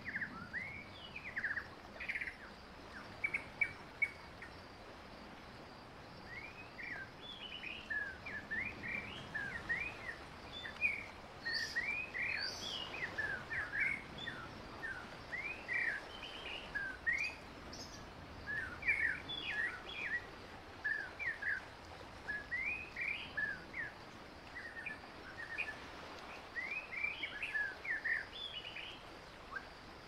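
Birds chirping outdoors: many short, quick sweeping notes in loose clusters, with a few higher notes about twelve seconds in, over a faint steady background hiss.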